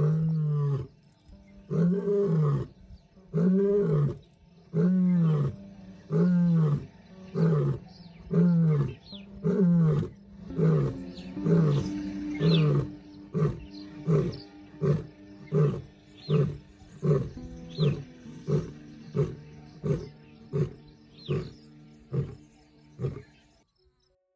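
Lion roaring in a full bout: several long, deep roars, then a long run of shorter grunting roars that come faster and grow weaker toward the end.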